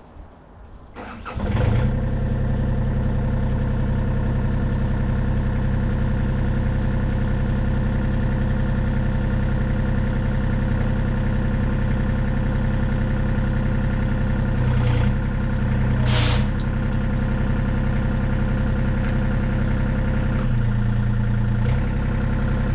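John Deere 35D mini excavator's diesel engine starting about a second in, then running steadily. Its note shifts briefly twice about two-thirds of the way through, once with a short hiss, and again shortly before the end.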